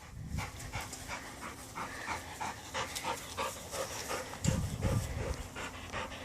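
A dog panting hard and fast, about four breaths a second, after jumping and playing fetch.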